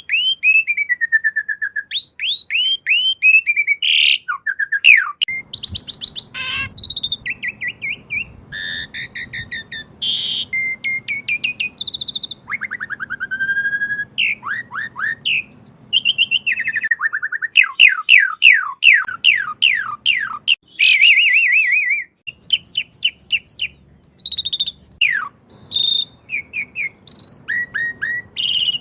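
Asian pied starling (jalak suren) singing loudly and continuously: a varied song of sweeping whistles, rapid runs of repeated notes and harsh chattering calls.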